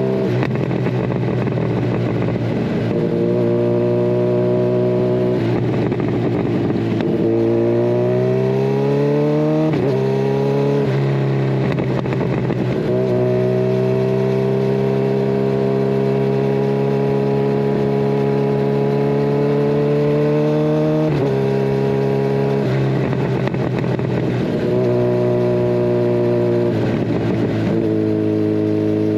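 Kawasaki Ninja 1000SX inline-four engine through a Scorpion Red Power exhaust with the catalytic converter removed, under way. The engine note climbs under throttle and drops sharply at several points, as at gear changes, with a long steady stretch in the middle.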